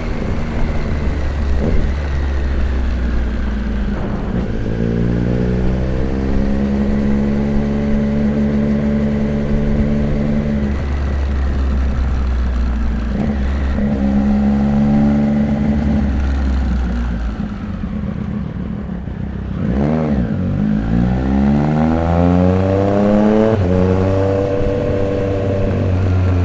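Triumph Street Triple 765 RX's inline three-cylinder engine through an SC-Project S1 aftermarket exhaust, heard from on the bike while riding: the revs climb and drop several times with the gear changes. Near the middle the engine eases off, then revs up steeply and pulls hard again about three-quarters of the way through.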